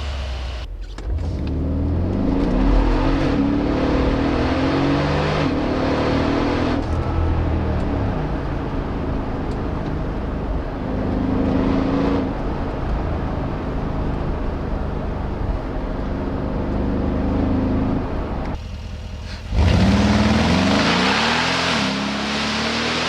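Mercedes G63 AMG twin-turbo V8 running through custom side-exit exhaust pipes, pulling hard again and again. Its pitch climbs and then steps down at each gear change. It drops away briefly near the end, then comes back suddenly louder.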